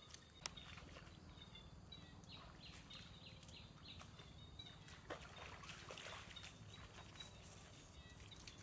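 Faint outdoor ambience: a bird calling in a quick run of short chirps, with a few soft splashes of bare feet wading through shallow water about five seconds in.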